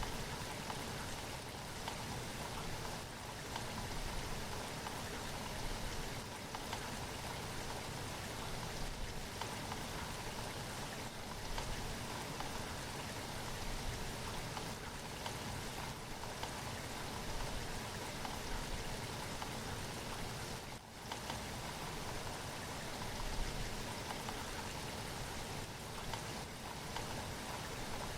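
Steady rain falling, a dense patter of raindrops on a surface, with a brief dip about 21 seconds in.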